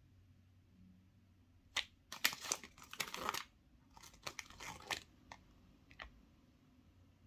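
Foil wrapper of a chocolate surprise egg being crinkled and torn open in two bursts of crackling, with a few sharp clicks between and after.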